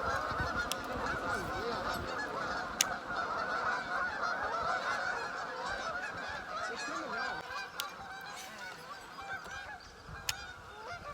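A large flock of birds calling over one another in a dense, unbroken chorus that eases off slightly toward the end, with a few sharp clicks in between.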